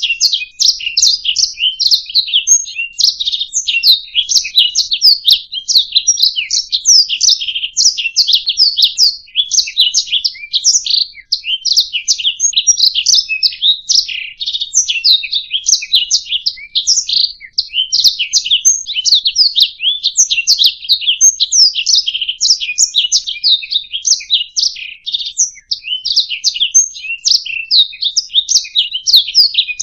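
Domestic canary singing a fast, unbroken song of rapid chirps and trills.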